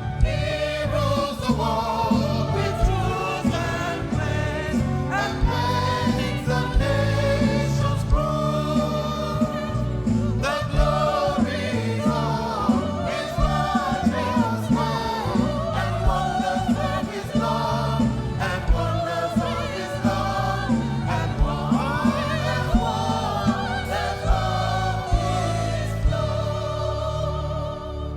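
Gospel choir singing with a band, over steady bass notes and regular drum hits.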